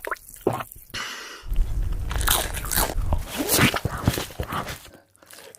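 Close-miked eating sounds of crunchy fast food: a few sharp crunching bites in the first second, then about three seconds of dense crunching and chewing that dies away near the end.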